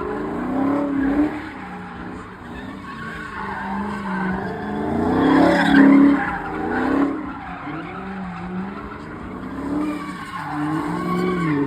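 Car engine revving up and down repeatedly while the tyres skid and squeal as the car slides, loudest about halfway through.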